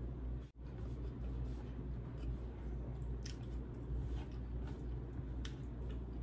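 Close-miked eating sounds: chewing with scattered small wet mouth clicks and smacks as chicken curry and rice are eaten, over a steady low hum. The sound drops out for an instant about half a second in.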